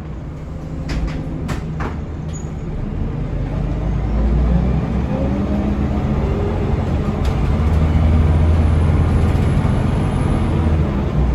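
Scania DC9 five-cylinder diesel of a Scania L94UB bus pulling away and accelerating. The engine note rises and grows louder from about three seconds in, and a few sharp clicks come just before.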